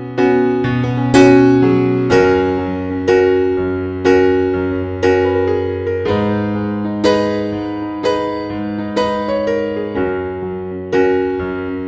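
Background music: electric piano playing slow chords, struck about once a second with each chord fading before the next, over a shifting bass line.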